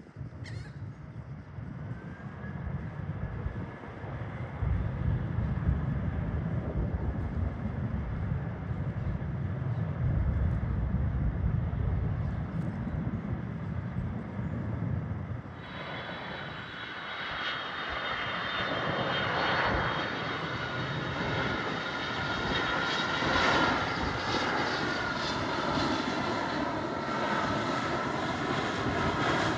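Jet airliner's engines: a low rumble for about the first half, then abruptly a louder high whine of several tones over the rumble, the tones bending slightly as the aircraft passes.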